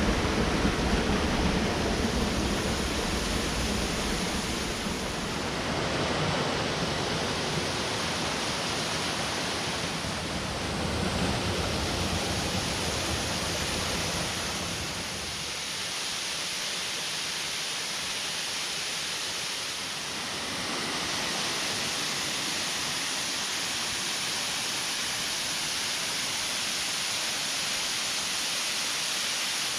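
Steady rush of a mountain stream's waterfalls and rapids, an even noise of falling water. A deep low rumble in it thins out about halfway through.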